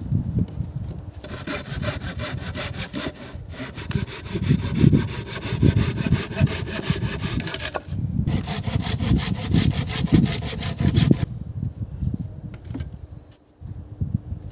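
Hand saw cutting through wood with steady back-and-forth strokes. It comes in two runs, with a short break about eight seconds in, and stops about three seconds before the end.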